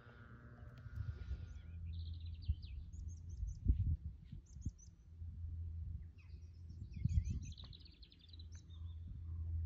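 Small birds chirping and twittering in quick high trills from about two seconds in, over a low rumble of wind and handling noise on the phone microphone.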